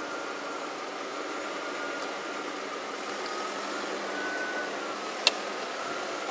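Land Rover Discovery 2's V8 running slowly through a creek crossing: a steady hum with a thin high whine held throughout. A single sharp click about five seconds in.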